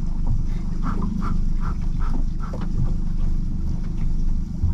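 A man breathing hard in quick rhythmic puffs, about six in a row, winded from hauling a boat's anchor up by hand, over a steady low rumble.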